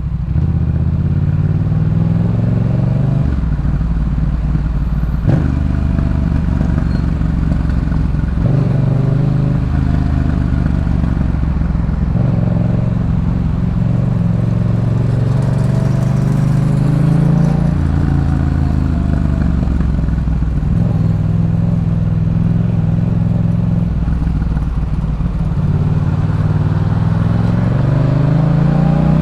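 Yamaha MT-07's parallel-twin engine through a Jeskap K4 full aftermarket exhaust under way. It revs up and drops back again and again as it works through the gears.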